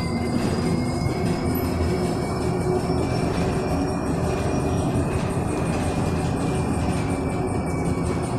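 Electric bus heard from inside the cabin while driving: the traction motor gives a high electric whine that drifts slowly in pitch over a steady rumble of road and tyre noise.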